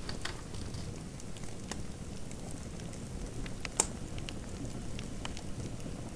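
Fireplace fire crackling: scattered sharp pops over a steady low rumble, with one louder pop about four seconds in.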